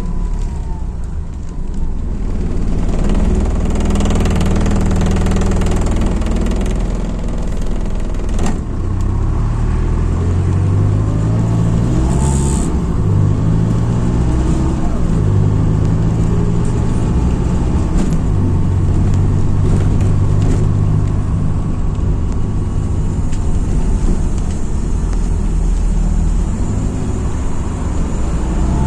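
MAZ-206 city bus's diesel engine heard from inside the bus as it accelerates, its pitch climbing in several steps as the gearbox changes up. A short hiss comes about twelve seconds in.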